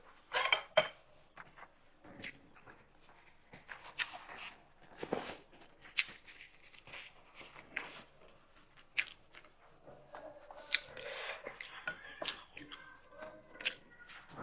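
Close-miked mouth sounds of a person eating: irregular wet chewing smacks, bites and small clicks.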